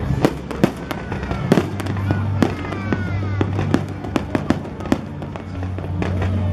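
An aerial fireworks display: a string of sharp bangs and crackles, several with falling whistling tones, over accompanying music with a steady low bass note.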